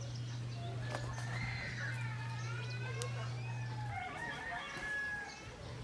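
Chickens calling, a series of wavering, gliding calls. A steady low hum runs underneath and stops about four seconds in.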